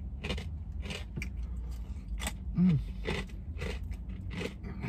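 Chewing crispy Popeyes fried chicken up close: crunches about twice a second, with a short hummed 'mm' about two and a half seconds in.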